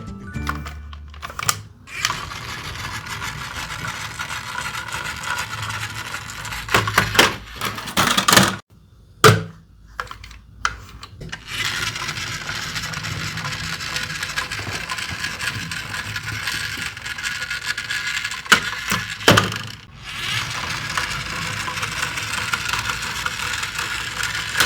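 Wheels of a diecast toy police jeep rolling along a toy track, a steady rattling roll broken by a few sharp clacks.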